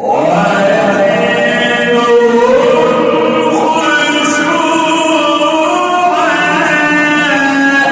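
A man's voice in melodic mujawwad Quran recitation (tajweed), drawing out one long phrase with slow ornamented rises and falls in pitch. It enters abruptly at the start, straight after silence.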